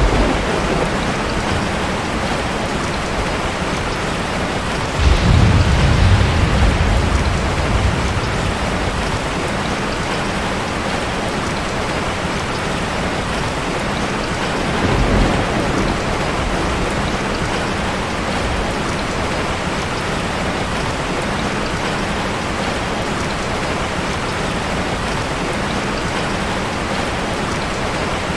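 Heavy rain falling steadily, with a clap of thunder about five seconds in that dies away over a few seconds, and a shorter, fainter roll of thunder about fifteen seconds in.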